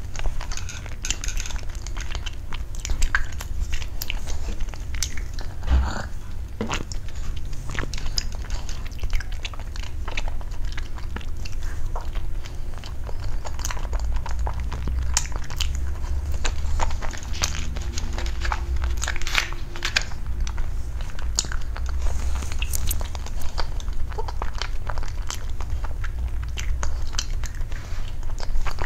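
Close-miked eating: a person biting into and chewing soft dessert pieces, with many small mouth clicks and smacks through the chewing.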